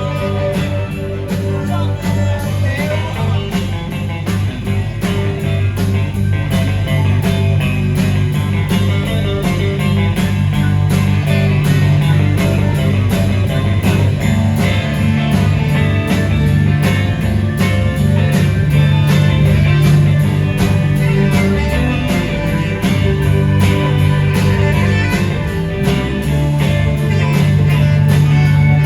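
Live rock band playing an instrumental break: guitar lead over a steady drum beat and bass.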